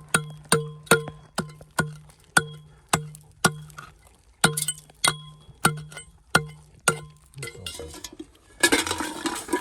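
Hand hammer blows ringing on metal, about two a second and slightly uneven, each strike leaving a short clear ring; they stop about seven seconds in. A loose rattling and scraping, as of stones or gravel being shifted, follows near the end.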